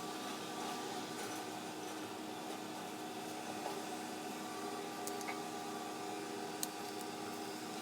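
A steady mechanical hum of a running appliance, holding a few fixed tones, with a few faint light clicks.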